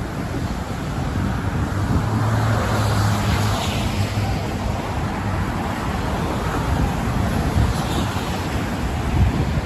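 Steady road traffic noise with wind, and two vehicles passing close by, one about three seconds in and one about eight seconds in.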